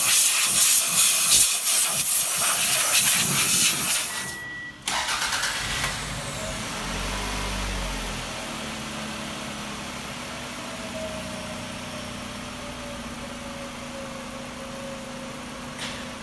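A loud, steady hiss of escaping air for about four seconds cuts off sharply. A car engine then starts a few seconds later and settles into a steady idle.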